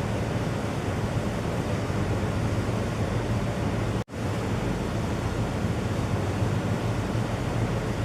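A steady rushing noise with a low rumble under it, which drops out for an instant about four seconds in.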